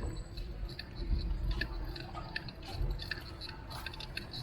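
Riding noise from a moving bicycle: irregular small clicks and rattles over a steady low rumble.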